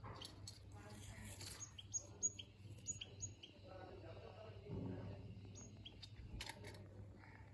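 Munias giving short, thin, high-pitched calls, several in quick succession about two to three seconds in and a few more near the end, over a faint low hum.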